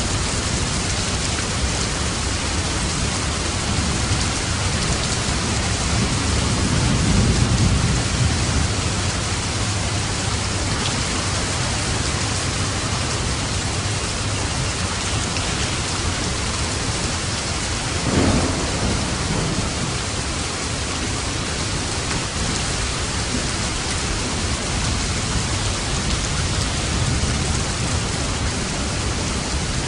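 Steady heavy rain with thunder rumbling: a long low roll about six seconds in and a sharper crack of thunder about eighteen seconds in.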